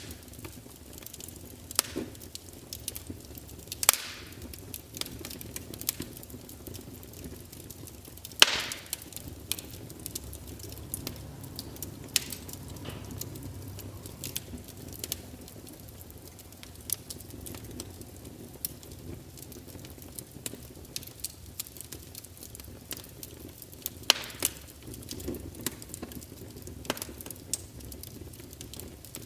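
Burning wood crackling, with many small irregular pops and a few louder snaps spread through, over a soft low rumble of flame.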